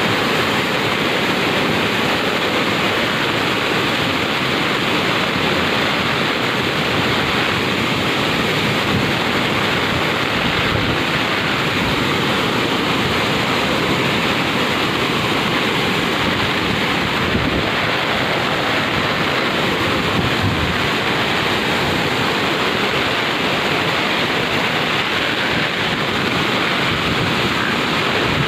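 Rushing floodwater during a typhoon: a loud, steady, unbroken roar of water.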